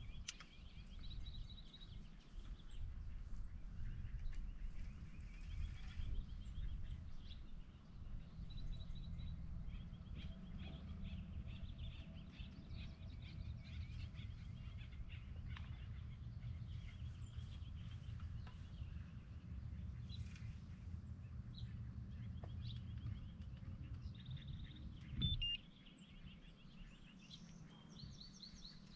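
Birds chirping and calling in short repeated phrases over a low steady rumble. The rumble stops after a single knock near the end.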